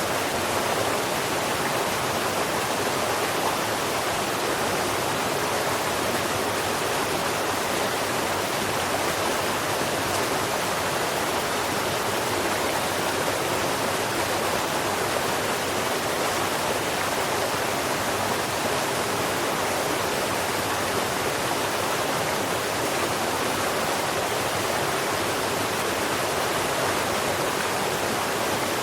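Steady rushing of running water, unchanging throughout, with no birdsong to be heard.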